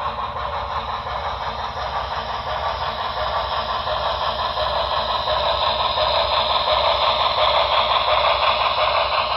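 HO-scale model steam locomotive running with its onboard sound decoder playing steam sounds, growing louder toward the end.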